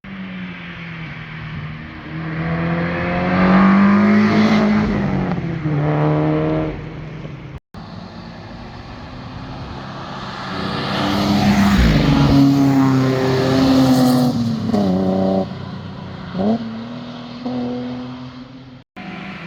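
Performance cars driving past under hard acceleration, the engine notes climbing and dropping as each car shifts and goes by. There are at least two separate passes, the sound breaking off suddenly about eight seconds in and again near the end.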